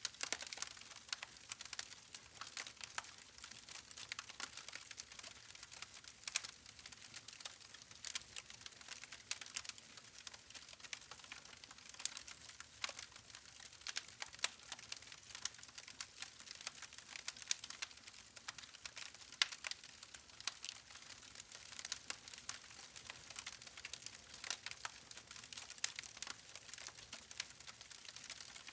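Wood fire crackling: a steady run of small sharp pops and snaps from burning logs over a faint hiss, with a few louder pops scattered through.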